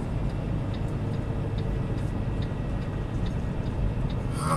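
Semi-truck tractor driving without a trailer, its engine and road noise heard steadily from inside the cab, with a faint, regular tick a little more than once a second.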